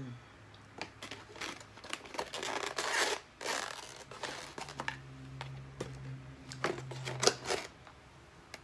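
Crinkling and rustling of food packaging, with scattered sharp clicks and taps, loudest a few seconds in, as leftover food is put away.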